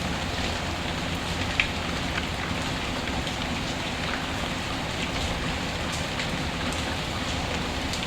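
Steady rain with scattered sharp pops and crackles from a wood fire; one louder pop comes about a second and a half in.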